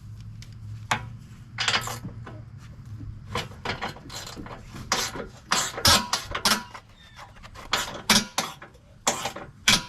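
Hand ratchet clicking in short runs, mixed with sharp metal clinks and knocks of tools on fasteners, irregular throughout. A low steady hum sits under the first three seconds.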